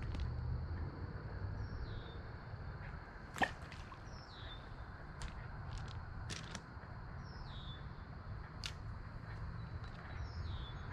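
A bird repeating a short, high, down-slurred call about every three seconds over a steady faint high-pitched hum and low rumble. Scattered light clicks and one sharper tick about a third of the way in come from fishing gear being handled.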